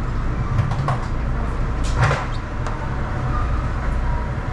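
Steady low hum of an automated airport people-mover car standing at a station with its doors open, with a brief clatter about two seconds in.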